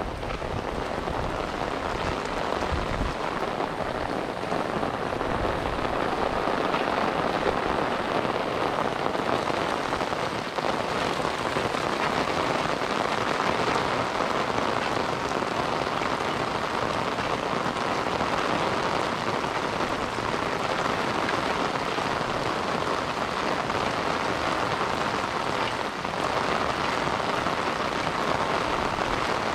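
Steady rain falling, an even hiss of many small drops that keeps up without a break.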